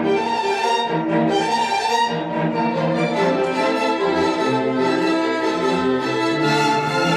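Small string ensemble playing, with violins and cellos in several parts holding sustained notes that move together through changing harmonies at a steady level.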